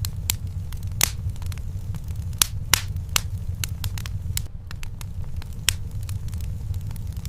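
Wood fire crackling in a fireplace: irregular sharp pops and snaps, a few louder ones about two and a half to three seconds in, over a steady low rumble.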